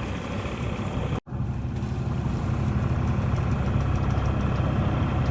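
A sailboat's auxiliary engine running steadily under way, its low hum mixed with wind and water noise. The sound drops out briefly about a second in.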